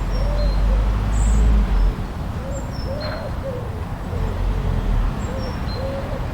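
Steady blizzard wind noise with a deep rumble that eases about two seconds in. Over it come a run of short, soft, low bird calls and a few brief high chirps from smaller birds.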